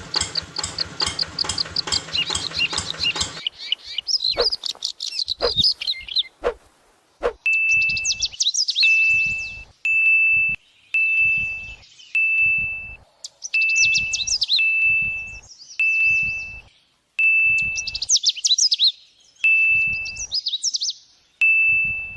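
Bird-like chirping, joined from about a third of the way in by a short, steady high beep that repeats about once a second between the chirps.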